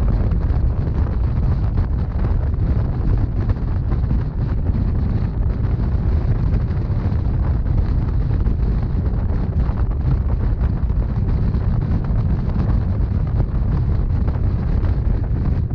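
Rhaetian Railway narrow-gauge passenger train running at a steady pace: a constant low rumble of the wheels on the track, with wind noise on the microphone.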